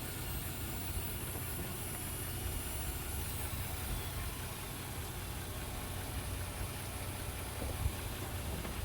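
Off-road vehicle's engine running steadily with a low hum.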